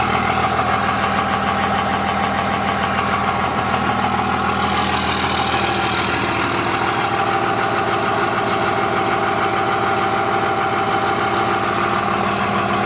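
2002 Dodge Ram's 5.9-litre Cummins inline-six turbo diesel idling steadily on a cold start, heard at the tailpipe of its aftermarket RBP exhaust, with a fast, even clatter.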